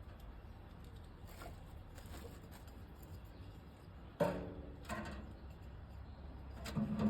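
Sheet-metal stove parts knocking: a sharp clank with a brief ring about four seconds in, then two softer knocks, over a low steady hum.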